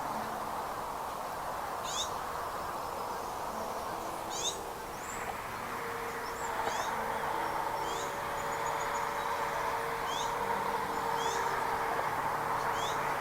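Short, high-pitched bird chirps repeating every second or two over a steady background hiss, with a faint low hum underneath.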